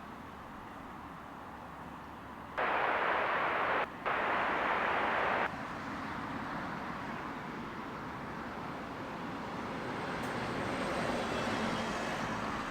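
Jet airliner noise on approach, a steady rush that slowly builds over the second half. A sharp-edged burst of hiss cuts in about two and a half seconds in, breaks off briefly and stops about three seconds later.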